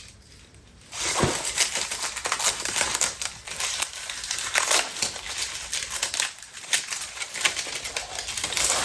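Packaging crinkling and rustling in the hands as accessories are taken out and unwrapped, starting about a second in and going on in irregular crackles.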